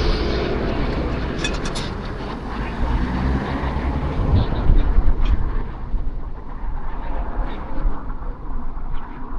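Train passing, a loud, steady rumble that eases off near the end, with a few brief clicks early on.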